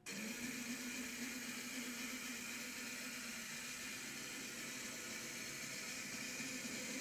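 HO-scale brass Shay model locomotive's can motor and gearing running steadily: a continuous whir with a hiss over it.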